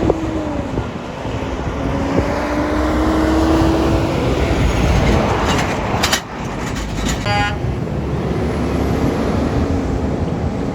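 Road traffic going by, engine drone and tyre noise of passing vehicles with a truck among them, the engine pitch drifting up and down. A few sharp knocks come past the middle, followed by a short, high toot.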